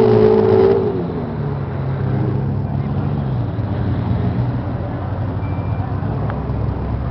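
Ferrari sports car engine: a short rev that falls away within the first second, then idling steadily.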